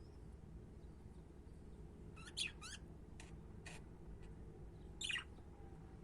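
Budgerigars giving a few short, sharp chirps: a quick cluster of calls about two seconds in and another single chirp near the end, over a low steady hum.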